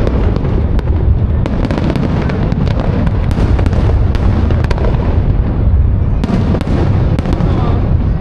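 Fireworks display at full barrage: continuous deep booms of aerial shells with many sharp cracks and pops on top, without a break.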